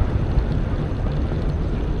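Steady low rumble of wind buffeting the microphone together with tyre noise from an electric mountain bike riding along a road.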